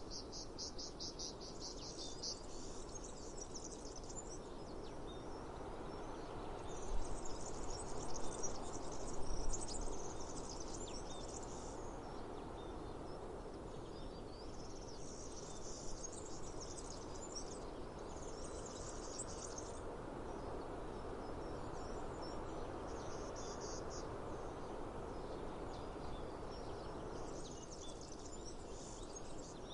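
Outdoor summer ambience: insects shrilling high-pitched in spells of a few seconds that come and go, over a steady rushing background noise. A few low thumps about a third of the way in.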